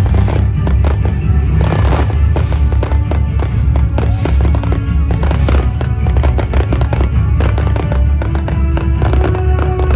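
Fireworks going off in quick succession, dense bangs and crackling over a heavy low rumble, with music playing throughout.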